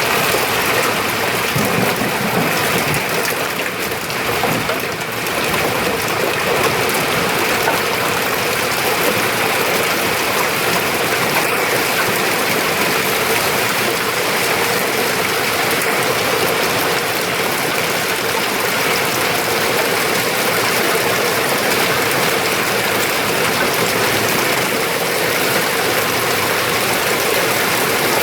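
Hail and heavy rain pelting down in a dense, steady clatter.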